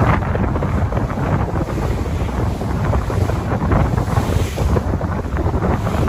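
Wind buffeting the microphone in uneven gusts over the steady rush of ocean waves.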